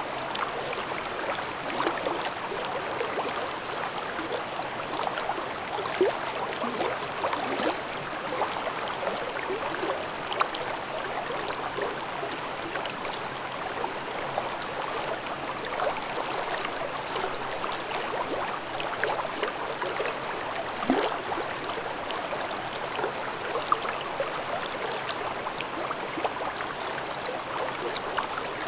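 Babbling mountain stream in a ravine: water running and gurgling over rocks with a steady rush and many small splashes and bubbling blips.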